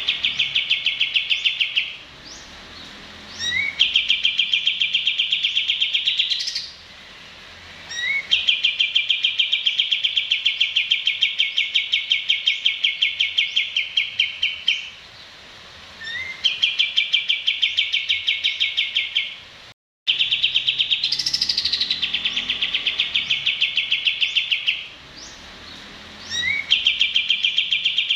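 Recorded songbird song: a short upward chirp followed by a long, fast, rattling trill, repeated several times with short pauses between, broken once near the middle by a brief dropout.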